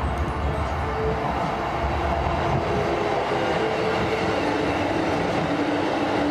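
JR West 221 series electric train running into the station past the platform, with wheel-on-rail rumble and a whine that falls steadily in pitch as it goes by.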